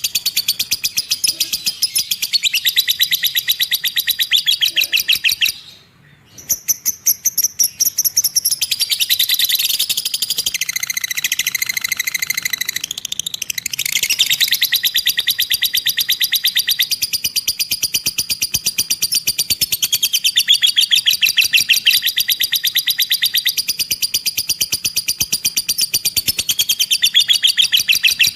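Lovebird 'ngekek': a long, rapid, high-pitched chattering trill that runs almost without a break. It pauses briefly about six seconds in, then goes on.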